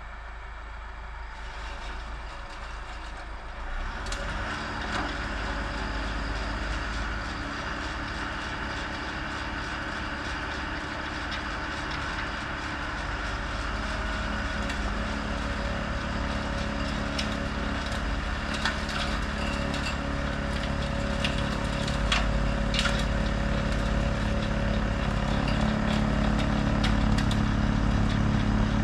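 Tractor diesel engine running with a snowblower on it, growing louder in steps about four seconds in and again after about twenty seconds, with scattered sharp cracks.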